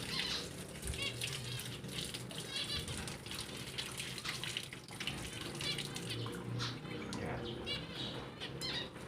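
Small cage finches chirping in short repeated calls, over a steady hiss.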